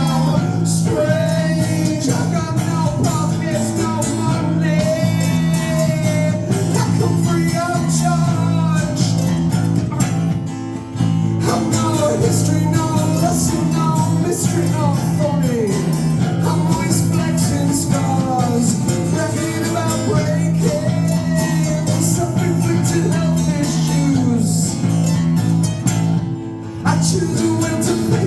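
Live rock band playing a song, guitars to the fore over a steady bass line, with a wavering melody line that may be singing or lead guitar; the sound drops off briefly twice.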